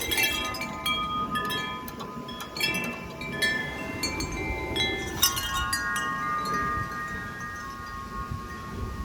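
Metal wind chimes struck in strong gusting wind: clusters of rapid clanging strikes, the biggest just after the start and about five seconds in, each leaving several tones ringing on together. Wind buffets the microphone underneath.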